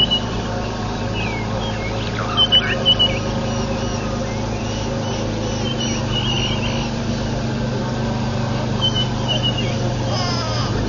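Birds chirping in short bursts of quick, high, bending calls, loudest about two and a half seconds in and again around six and nine seconds, over a steady low hum.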